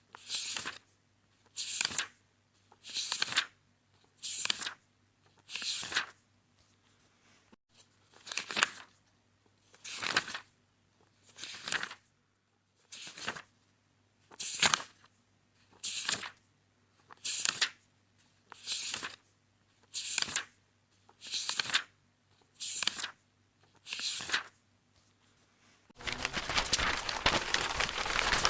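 Book pages turning one at a time, a short papery swish about every second and a half. Near the end it gives way to a continuous rough rustle of paper.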